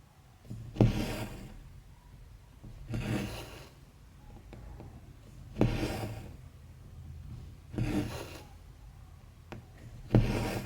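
Needle and thread being pulled through 14-count cross-stitch fabric, stitch after stitch: a sharp pop as the needle passes, then a rasping draw of the thread. This happens five times, roughly every two and a half seconds.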